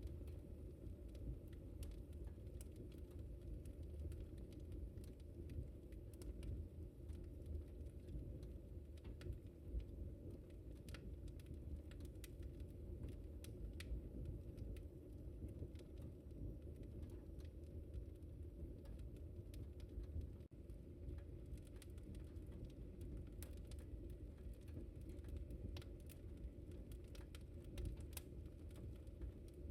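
Wood fire crackling in a fireplace: a steady low rumble of the burning logs with frequent, irregular sharp snaps and pops.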